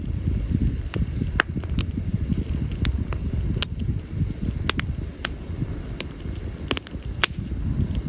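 Wood campfire burning: irregular sharp pops and crackles, about a dozen, over a steady low rumble.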